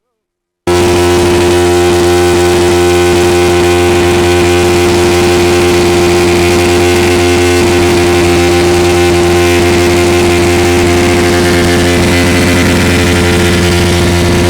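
Motorcycle engine running at a steady speed, its note holding even throughout. It cuts in after a brief silent gap right at the start.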